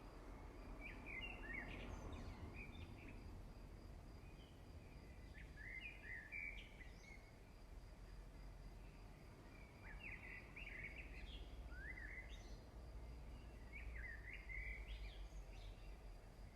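Faint birds chirping, short twittering phrases repeating every second or two over a low steady background hum.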